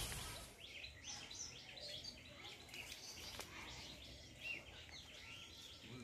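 Faint birds chirping, many short calls repeated over a quiet outdoor background.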